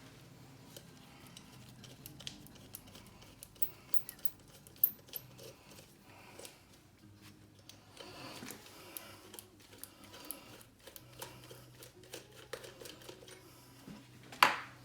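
Small clicks, taps and rattles of metal and plastic parts being handled while a diesel heater is dismantled by hand, with two sharp clicks, about five seconds in and near the end.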